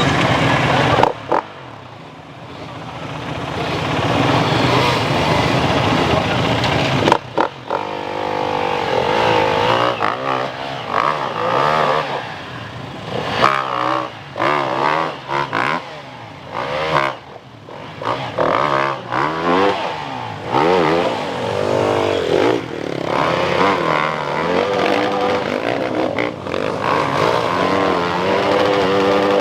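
Motocross dirt bikes revving hard, the engine pitch climbing and falling again and again as riders work the throttle and shift gears. The sound drops away sharply about a second in and cuts abruptly around seven seconds.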